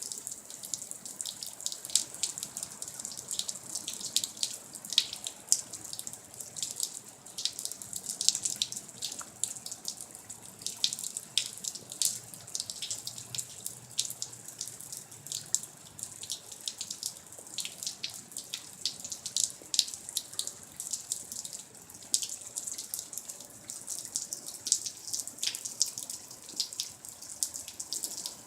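Rain falling: a steady high hiss with many separate drops ticking sharply and irregularly close by.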